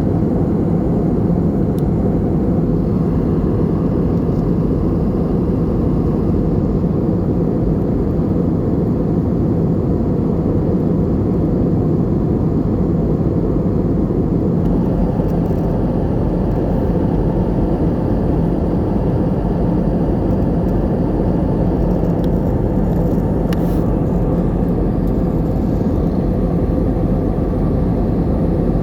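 Airbus A320 cabin noise in flight: a steady, even low drone of the engines and air rushing past the fuselage.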